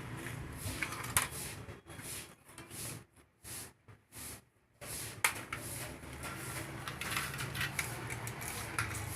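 Irregular mechanical clicks and scraping, as of small parts or tools being handled, dropping briefly to near silence with a few short sounds in the middle.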